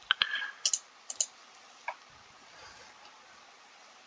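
A quick cluster of sharp clicks in the first second or so, with one more click near the two-second mark.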